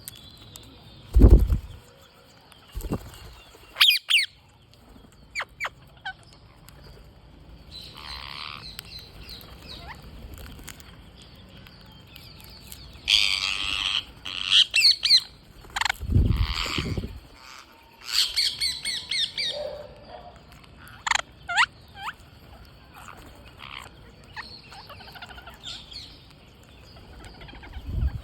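Green parrots squawking in harsh, repeated bursts, with a few short, sharp whistled calls in between. Dull low thumps stand out about a second in and again around the middle.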